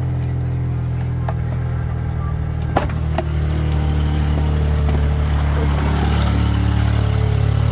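1990 Geo Metro's 1.0-litre three-cylinder engine idling steadily seconds after a cold start. A few sharp clicks come about one to three seconds in, after which the engine sound is a little louder.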